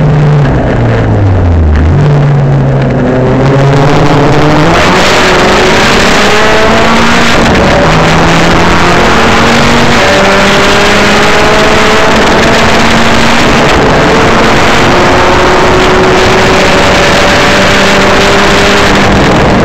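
Maptun-tuned Saab 9-3 Sport race car's 2.0-litre turbocharged B207 four-cylinder, loud at full-throttle track driving. Its pitch falls over the first couple of seconds as the car slows, then the revs climb again and again through the gears, dropping at each upshift, with wind and road noise over it.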